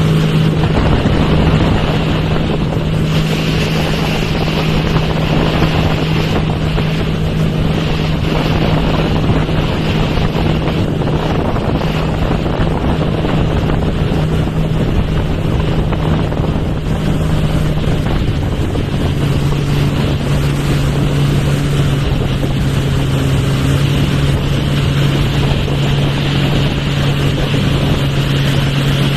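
Speedboat engine running steadily at speed, with water rushing and wind buffeting the microphone; the engine note drops a little about two-thirds of the way through.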